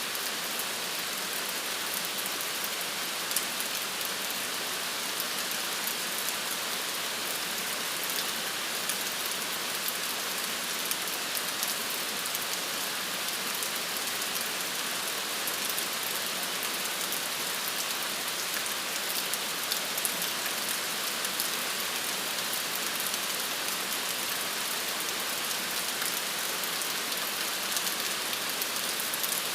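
Steady rain falling, an even hiss dotted with the small ticks of drops hitting a surface.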